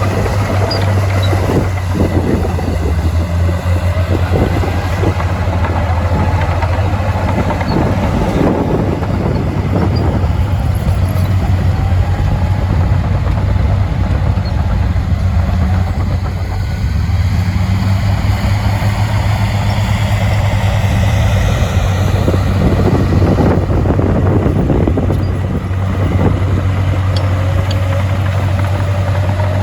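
Heavy diesel earthmoving machinery running under load: a steady low engine drone whose note slowly rises and falls, with a few clanks.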